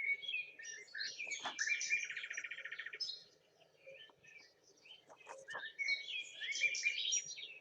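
Songbirds chirping and singing, with a fast trill lasting about a second around two seconds in; the calls thin out briefly in the middle, then return.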